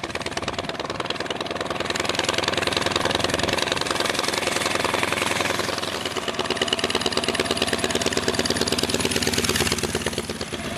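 V4 motorcycle engine running with a rapid, even firing beat, its revs rising and falling.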